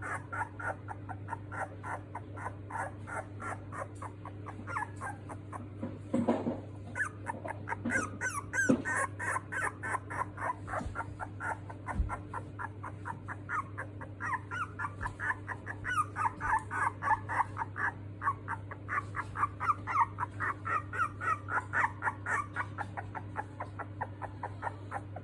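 Miniature dachshund puppy squeaking and whimpering in a steady string of short, high cries, about four a second.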